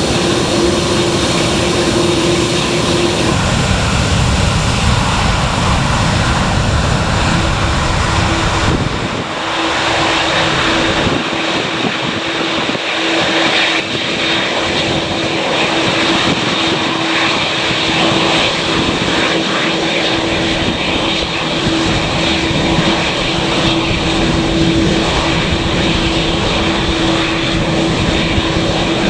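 Aircraft engines running loud and steady at takeoff power as a plane departs, with a steady droning tone underneath; the deep rumble drops away about nine seconds in.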